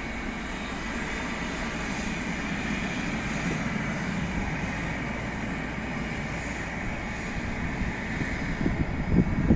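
Jet engines of an Airbus A319 at takeoff power, a steady roar with a faint whine on top. Near the end, louder irregular low rumbling gusts come in.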